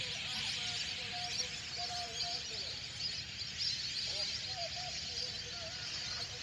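Steady outdoor hiss with faint distant voices and bird calls coming and going over it.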